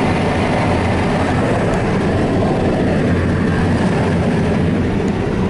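Car wash dryer blowers running, a loud, steady rush of air heard from inside the car.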